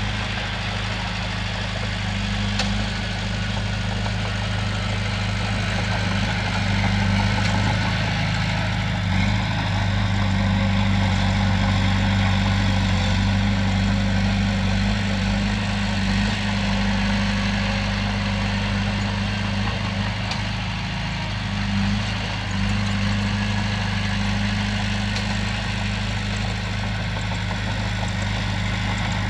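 Komatsu bulldozer's diesel engine running steadily with a deep, even hum. It grows a little louder for several seconds in the middle.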